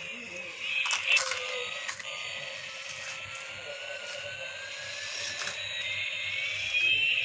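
Battery-powered toy airplane playing its electronic sound effect: several thin whistling tones sliding slowly up and down at once. There are a few sharp clicks about one to two seconds in, and another later.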